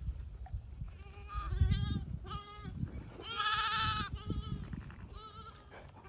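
St. Croix ewe and lambs bleating: about five or six short, wavering calls, the loudest a little past the middle, over a low rumble. The mother and her newly tagged lamb call to each other as he is brought back to her.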